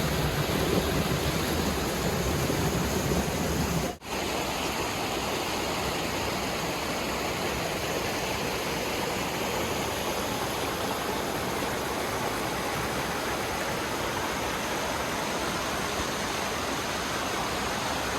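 Steady rushing of a creek and small waterfall. It breaks off briefly about four seconds in, then goes on a little softer, with less low rumble.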